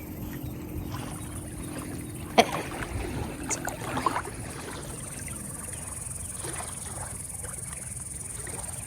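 Lake water splashing and lapping around a swimming dog, over a steady low rumble, with a sharp knock about two and a half seconds in.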